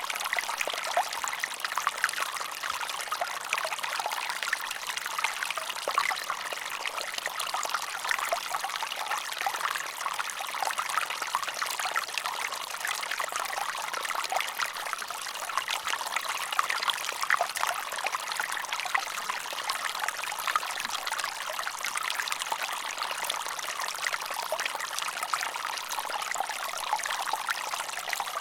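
Running water of a small stream, trickling and splashing steadily, with many small splashes.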